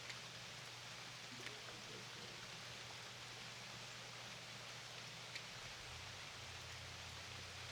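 Steady rain: an even hiss with a few louder drops ticking now and then. A low steady hum runs underneath and shifts lower about six seconds in.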